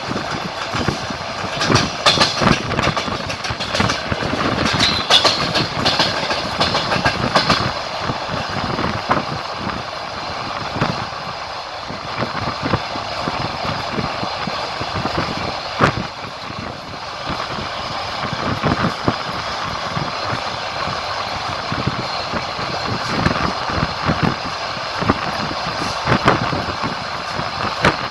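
Passenger train running at speed, heard from aboard: the wheels clack over the rail joints over a steady rolling rumble, with one sharp knock about sixteen seconds in.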